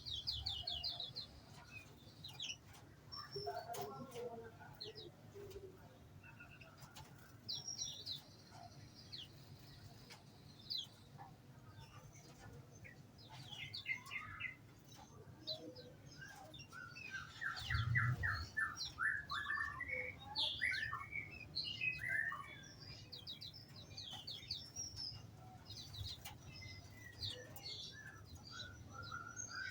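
Small songbirds in an aviary chirping and singing, several at once, with many short chirps and fast trilled note runs overlapping throughout. A brief low thump comes about eighteen seconds in.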